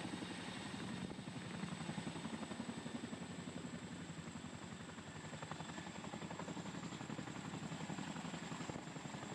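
CH-47 Chinook tandem-rotor helicopter's rotors chopping in a rapid, steady beat, with a thin high whine alongside.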